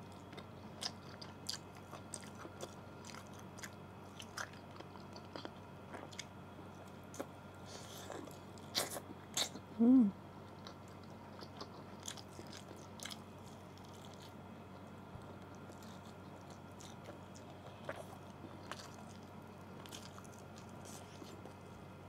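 Close-miked eating of an adobo chicken drumstick: biting and chewing with wet mouth smacks and small clicks, a louder cluster of bites around eight to ten seconds in, and a short hummed 'mm' near ten seconds.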